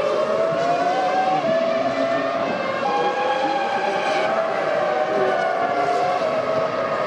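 Formula One cars' 3.0-litre V10 engines running at high revs. Their high whining note climbs and then drops in steps as gears change, several times.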